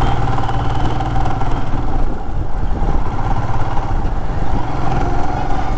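Royal Enfield Himalayan 411cc single-cylinder engine running steadily as the motorcycle rides on, with road noise.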